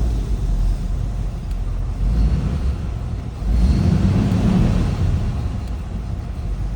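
Engine running with a steady low rumble after a slow hot start, rising in loudness for a second or so about three and a half seconds in.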